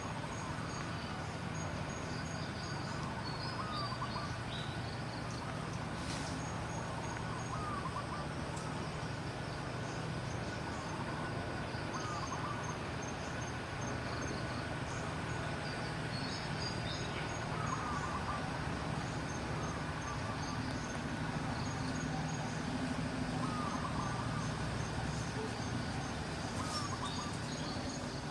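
Outdoor ambience: a steady low hum and hiss, with short chirps repeating every two to three seconds and rows of fast, high ticking like insects.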